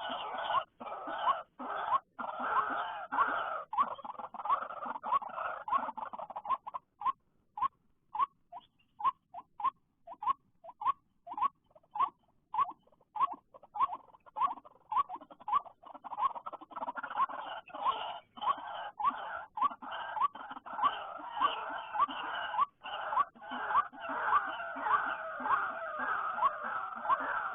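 White-breasted waterhen calling: a long run of short rising notes, about two a second, over a denser chattering layer that thins out in the middle and builds up again in the second half.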